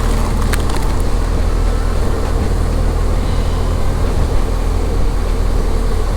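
Motorcycle engine running steadily while riding in heavy rain, under a dense rush of wind, rain and wet-road noise, with a few brief clicks about half a second in.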